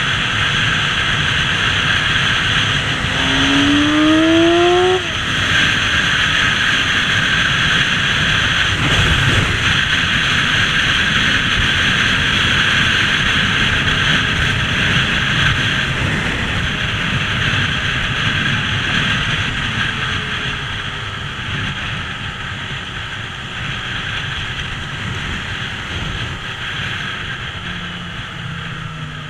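Motorbike on the move: a steady rush of wind and road noise over a running engine. About three seconds in, an engine note rises quickly for a couple of seconds, as on acceleration, then drops away. The noise grows gradually quieter over the last ten seconds.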